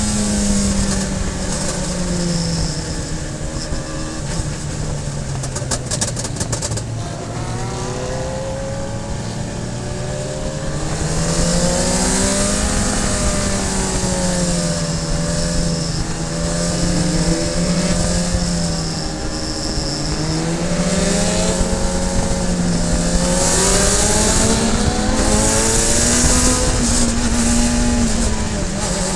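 Radical SR3 race car's motorcycle-derived four-cylinder engine under racing load, heard onboard. Its pitch falls over the first several seconds as the car slows, then climbs and holds, dips briefly past the middle and climbs again as the car accelerates.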